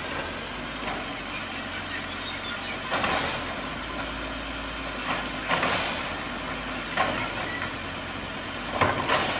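Truck engine idling steadily, with a few brief louder swells.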